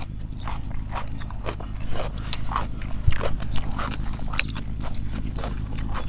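Close-up chewing and lip-smacking of people eating papaya salad: a string of short, irregular crunches and clicks over a steady low hum.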